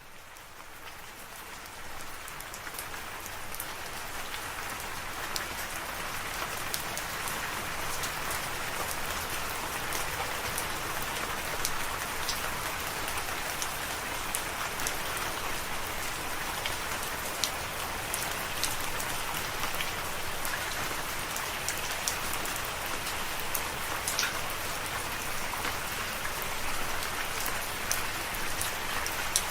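Steady rain falling, with scattered sharp drop ticks over the hiss. It fades up from silence over the first few seconds, then holds steady.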